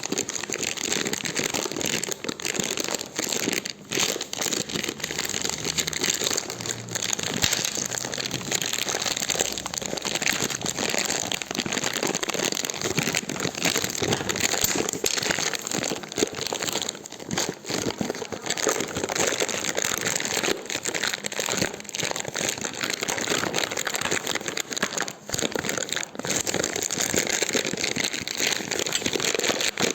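Campfire burning with a dense, continuous crackling and popping of the wood.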